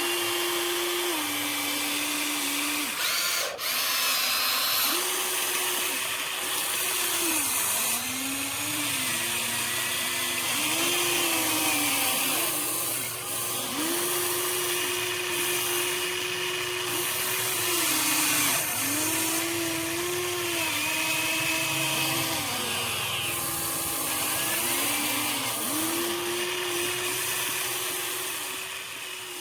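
Huina 1593 RC excavator's small electric motors whining as it works, the pitch sagging and recovering again and again as the motors take up load and ease off.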